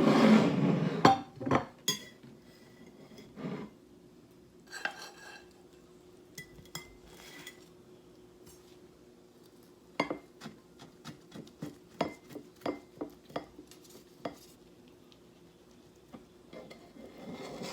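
Cutlery and dishes clinking: scattered sharp taps and clicks, with a louder noisy clatter at the start and a quick run of taps in the second half.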